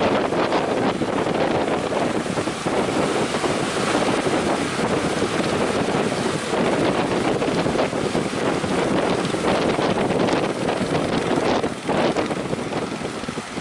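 Strong wind buffeting the microphone over breaking surf: a loud, steady rushing, briefly easing near the end.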